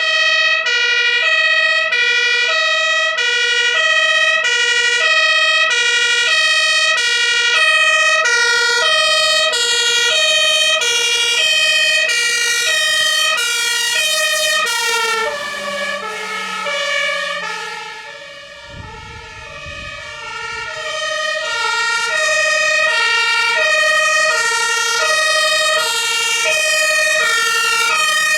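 German fire engine's two-tone Martinshorn siren wailing, alternating steadily between a high and a low tone about once every half-second or so. About halfway through the tones shift slightly lower, and the siren briefly fades a little before coming back to full level.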